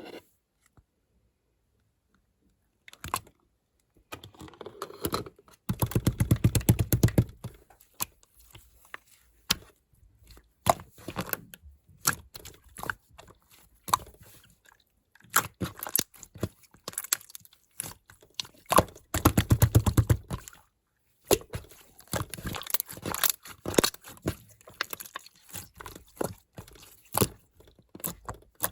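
Hands squishing and stretching clear slime: a run of sticky clicks and small air-bubble pops, with two longer, denser squelching stretches. It starts after about three seconds of silence.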